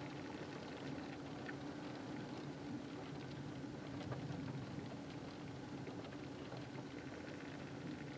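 Heavy thunderstorm rain falling steadily, a dense patter of drops.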